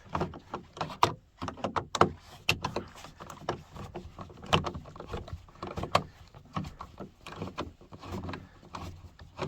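Irregular clicks, taps and knocks as a Phillips screwdriver works a screw out of a minivan's door trim panel, with small metal and plastic handling sounds.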